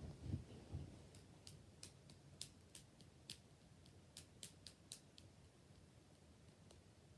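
A few low, soft thuds, then about a dozen sharp, irregular clicks over some four seconds, trailing off near the end.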